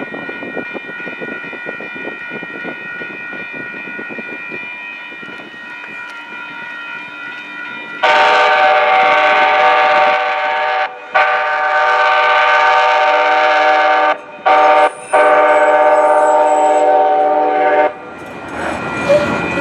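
A train rumbles along the rails. About eight seconds in, its horn sounds loudly for about ten seconds, broken by three brief gaps, and it cuts off a couple of seconds before the end.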